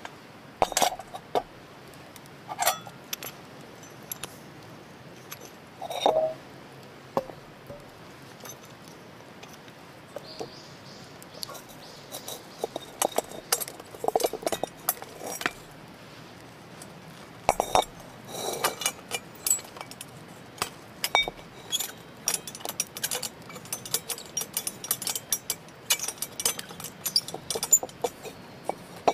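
Irregular light clinks and knocks of cookware and utensils being handled, denser in the second half, over a faint steady hiss.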